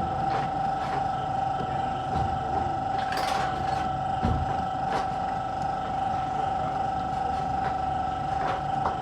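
Workshop noise: a steady high whine with scattered clicks and knocks, and a short hiss about three seconds in.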